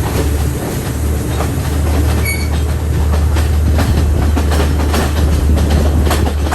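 Moving passenger train running on the rails: a steady low rumble with wheels clicking irregularly over the track, and a brief high-pitched squeal about two seconds in.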